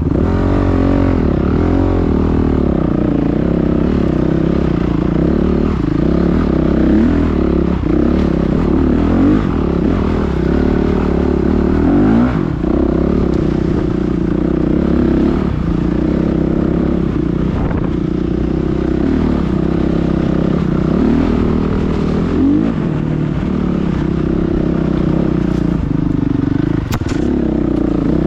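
Motocross motorcycle engines running hard, their pitch rising and falling again and again as the throttle is opened and shut.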